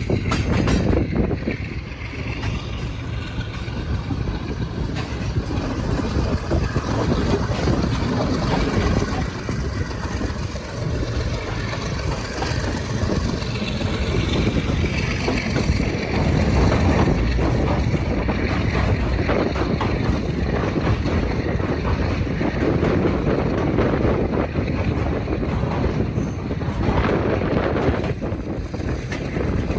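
Passenger train in motion: a steady, loud rumble of wheels and running gear.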